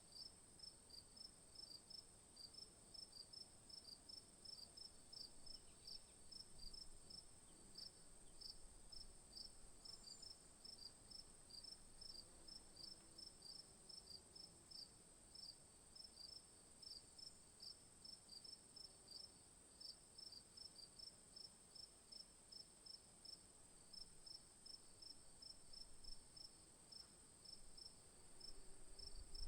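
Faint insects calling: a steady high-pitched drone with evenly repeating chirps, typical of crickets.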